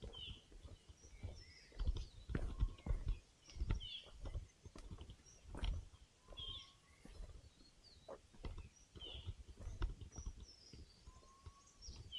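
Footsteps of a person walking on a forest trail, with forest birds calling: a short high call repeated every few seconds and an occasional lower whistled note that rises slightly.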